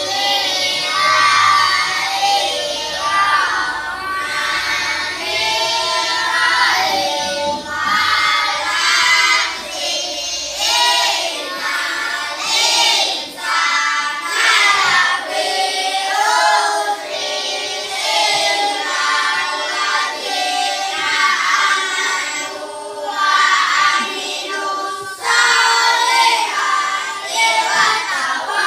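A class of children chanting a prayer together in unison, in a sing-song melody.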